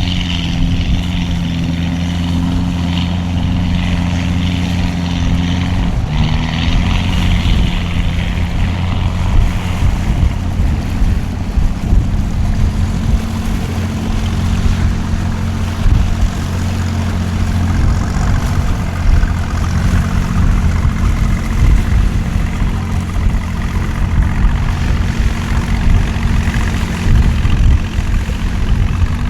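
A boat's engine running steadily, with a slight shift in its pitch about six seconds in, over a noisy hiss.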